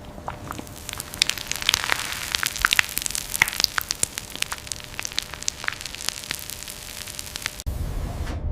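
Irregular crackling and sharp pops over a steady hiss. A low rumble cuts in abruptly near the end.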